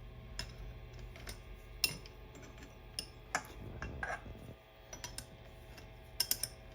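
Scattered sharp metallic clicks and clinks of steel tooling being handled and set on a milling machine table, the loudest about two seconds in and a quick cluster near the end, over a steady low hum.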